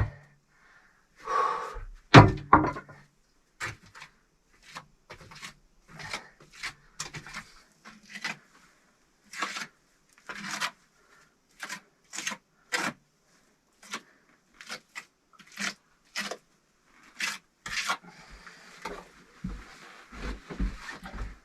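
Bricklaying on a brick stove: a series of short, irregular scraping strokes, roughly one a second, as mortar is spread and smoothed over the bricks, with a louder scrape and knock about two seconds in.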